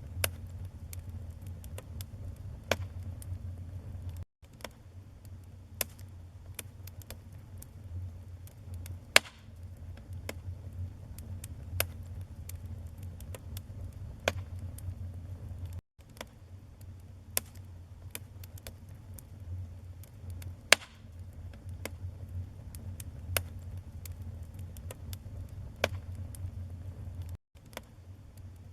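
Wood fire burning in a fireplace: steady low rumble of the flames with frequent irregular crackles and occasional sharper pops. The sound drops out for a split second three times, about every twelve seconds.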